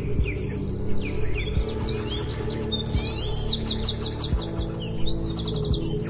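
Songbirds chirping and twittering, with fast runs of short repeated notes about three seconds in and again near the end, over soft background music with sustained low notes.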